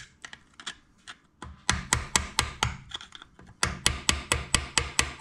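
Quick, light hammer taps, a short run and then a longer one at about four to five strikes a second, driving the nut on the milling-machine spindle tight against the new bearing to set its preload.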